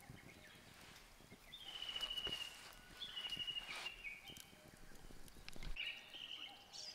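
A bird singing short, high trilled phrases a second or so apart, each a little higher or lower than the last, over faint outdoor background noise.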